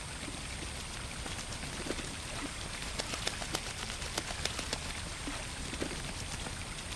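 Pond ambience: a steady hiss with a run of small sharp ticks and drips on the water from about three to six seconds in, like droplets or light dabbling at the surface.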